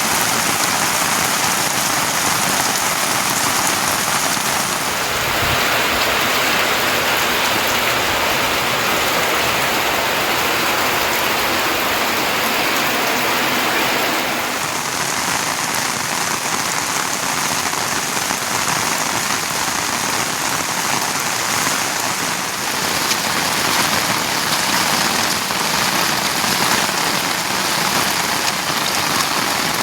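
Monsoon rain falling steadily in a continuous hiss, its texture changing about five seconds in and again about halfway through.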